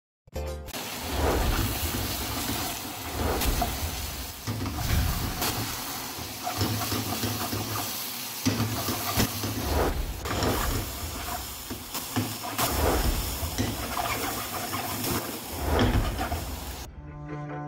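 Onions, vegetables and shrimp sizzling in hot oil in a wok, with irregular scrapes and knocks of stirring. Music comes in near the end.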